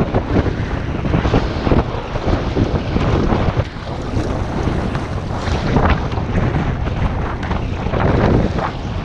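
Gusty wind blowing across the microphone, a loud uneven rumble that surges and dips.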